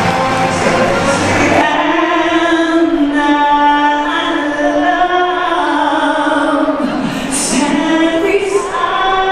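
A woman singing unaccompanied, holding long, slowly moving notes. About a second and a half in, a noisier mix with a low rumble gives way abruptly to the clear solo voice.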